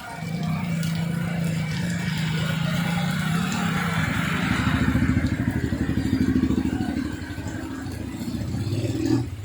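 A vehicle engine running steadily, with a rushing hiss that swells and fades in the middle.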